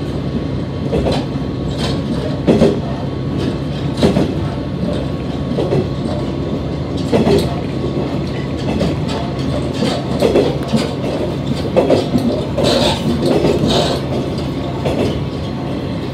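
Interior running noise of a diesel railcar: a steady low rumble of engine and wheels, with irregular clacks and knocks from the wheels over rail joints.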